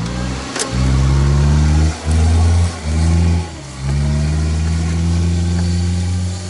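A small Peugeot car's engine running close by, a low steady note that dips briefly three or four times in the first few seconds and then holds.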